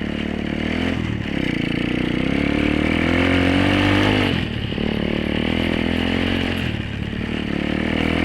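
Apollo 125cc dirt bike's single-cylinder four-stroke engine being ridden under throttle, revving up and dropping back: the pitch climbs from about a second in to a peak near four seconds, falls away sharply, then climbs again twice.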